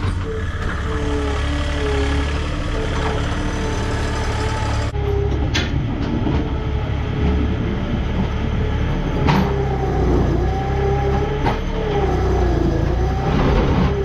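Farm tractor engine running steadily, with a wavering mechanical whine over its rumble and a few short knocks.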